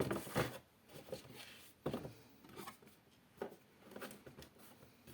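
Handling noises from unboxed cooler parts and packaging: a few scattered light knocks and rustles, with a cluster near the start and single ones spread through the rest.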